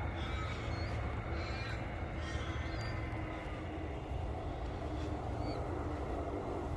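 Wild birds calling, a few short separate calls with crow-like cawing among them, over a steady low rumble.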